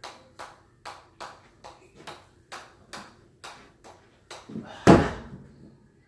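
Rhythmic light impacts at a little over two a second, the pace of a repeated, counted exercise; a much louder, longer thump comes about five seconds in.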